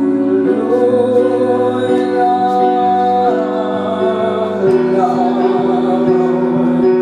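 Live pop-rock song: band music with a singing voice holding notes between sung lines.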